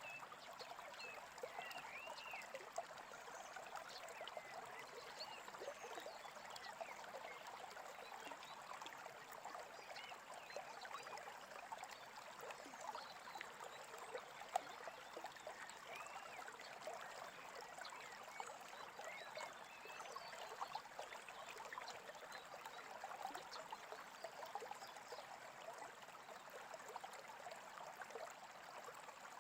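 Small creek trickling and gurgling steadily and faintly, with a few short bird chirps and one sharp click about halfway through.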